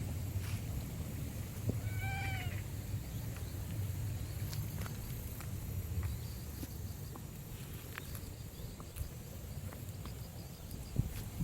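A domestic cat meows once, a short call about two seconds in that rises and falls in pitch, over a steady low rumble with a few faint clicks.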